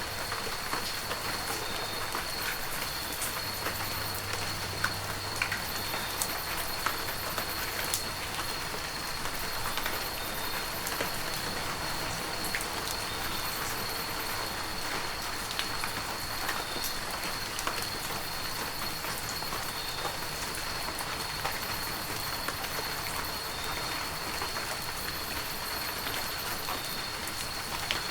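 Heavy rain falling steadily, an even hiss with many individual drops striking sharply close by. A thin, steady high tone runs faintly underneath.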